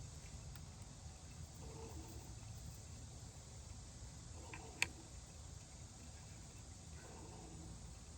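Faint steady low background rumble, with one sharp click a little under five seconds in.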